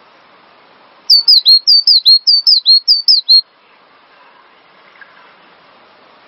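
Cinereous tit (gelatik batu) singing a loud run of repeated two-note whistled phrases, each note sliding down, for about two seconds starting about a second in.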